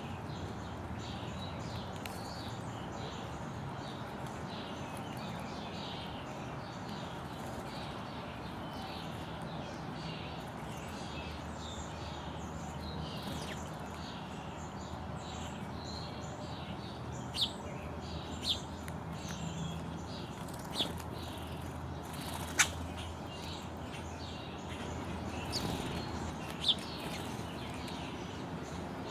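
Small birds chirping and calling at a feeding spot, with five sharp, short sounds standing out in the second half.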